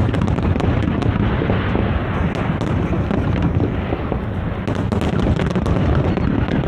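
Big fireworks display: a continuous deep rumble of overlapping shell bursts, with many sharp crackles and pops on top, thickest near the end.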